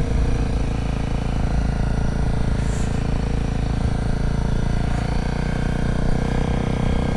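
Honda CRF250L's single-cylinder four-stroke engine running steadily at low revs, with no revving or change in pitch.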